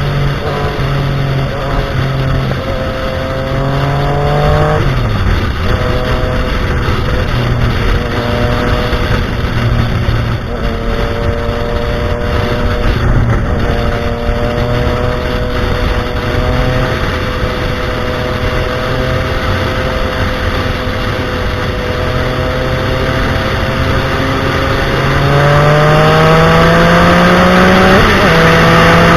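Motorcycle engine running under way with wind rushing over the microphone. Its pitch climbs as it accelerates and drops suddenly at gear changes, about five seconds in and again near the end, and it gets louder in the last few seconds.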